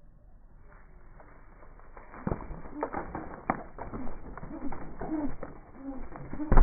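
Birds at a feeding station: a run of clicks and knocks, building from about two seconds in, mixed with short low calls, and a sharp thump near the end that is the loudest sound.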